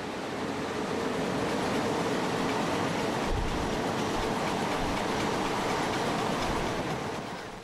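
Moving train heard from an open carriage window: a steady rushing of wheels on rails, the train being pushed by an ÖBB class 1020 electric banking locomotive. A few dull low thumps come in the middle, and the noise fades near the end.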